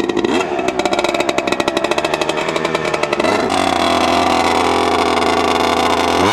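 Pit bike engine running hard: a fast pulsing at high revs for the first three seconds or so, then the revs hold at a steady pitch from about three and a half seconds in.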